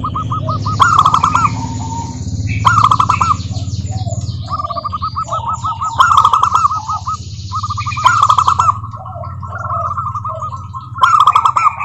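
Zebra doves calling: rapid trilled, staccato cooing phrases repeated over and over, with several birds overlapping and louder bursts about every two seconds. Higher chirping sounds over the cooing.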